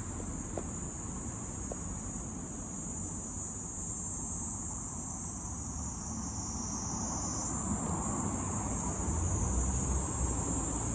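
Kaempfer cicada (Platypleura kaempferi) singing: a continuous high-pitched buzz that sags slightly lower in pitch for a couple of seconds in the middle, then jumps back up. A low rumble lies underneath, growing a little louder near the end.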